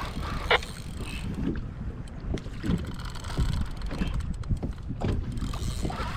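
Wind buffeting the microphone over water lapping against a kayak, with a few light, irregular knocks.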